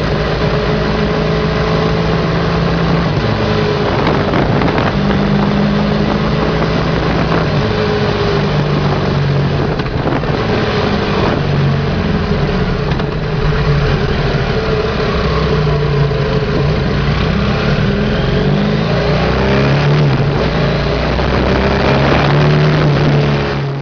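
BMW F800GS parallel-twin engine running at highway speed under heavy wind and road noise. The engine's pitch rises and falls a little several times as the throttle and speed change.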